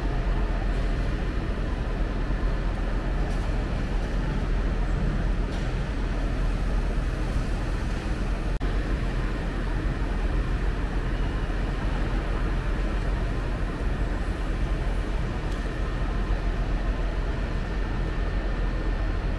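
A train running with a steady low rumble and hiss that holds level throughout.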